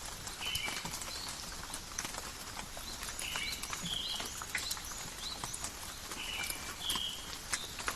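Steady rain falling in a forest, with many sharp drips and patters. Short high animal calls recur every second or two over it.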